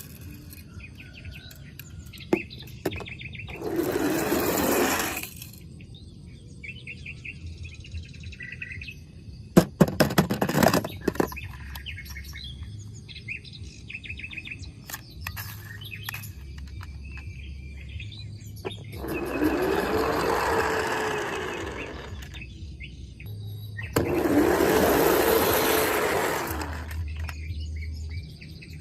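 Small birds chirping in quick repeated trills. Three louder rushing sounds, each a few seconds long, come and go; the later two carry a tone that rises and then falls. A burst of sharp clicks comes about ten seconds in.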